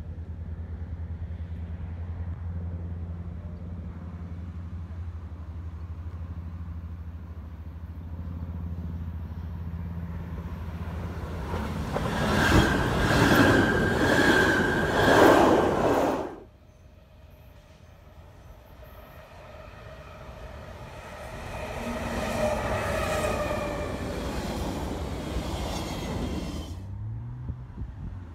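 SBB passenger train passing close by: a steady low hum at first, then for about four seconds a loud rush of air and rhythmic wheel clatter over the rail joints, which stops abruptly. Later a quieter train sound with a steady whine swells and fades.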